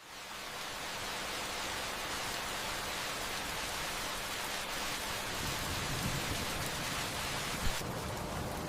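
Steady rain falling, a dense even hiss that fades in at the start. A single brief thump sounds near the end.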